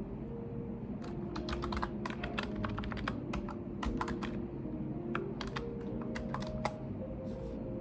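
Typing on a computer keyboard: quick runs of key clicks starting about a second in and stopping near the end, over a steady low background hum.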